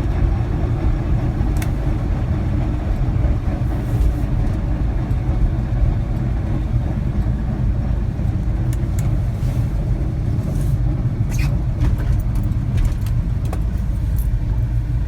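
1983 Chevy K10 4x4 driving forward in four-wheel drive with the front hubs locked: a grinding noise from the front drivetrain over a steady low rumble. The owner wonders whether it is a wheel bearing or the front differential, and thinks it comes from the hub.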